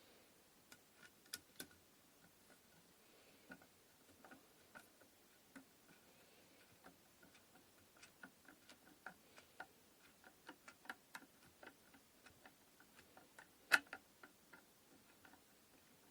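Faint, irregular small clicks and taps of wooden inkle loom parts being handled and fitted, with one sharper knock near the end.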